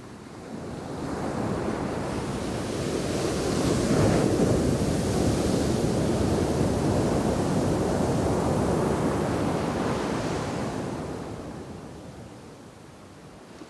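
Ocean waves in the shore break: one wave surges up from about half a second in, loudest around four seconds, washes for several seconds and then dies away near the end.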